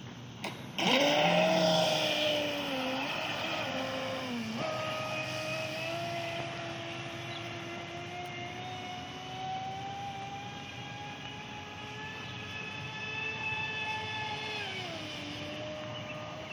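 Traxxas Spartan RC boat's brushless electric motor whining as the boat runs. The whine starts abruptly about a second in and dips in pitch around four seconds. It then climbs slowly for about ten seconds and falls away near the end as the throttle changes.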